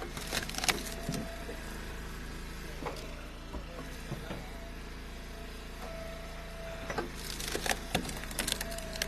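An engine running steadily while firewood is worked, with sharp wooden knocks and clatter of split pieces about half a second in and again in the last two seconds.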